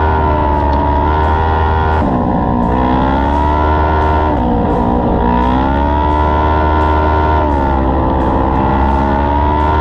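Micro sprint race car engine running hard on a dirt oval, its revs dropping three times as it lifts for the corners and climbing again on the straights.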